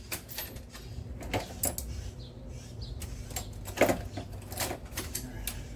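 Irregular clicks and light metallic knocks of hand tools and a socket being handled and fitted, one louder knock a little before the four-second mark, over a low steady hum.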